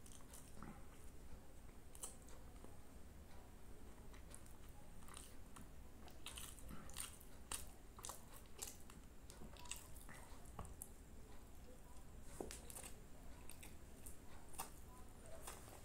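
A person chewing and biting a mouthful of naan and curry eaten by hand, with many short, irregular mouth clicks and smacks, busiest in the middle and near the end.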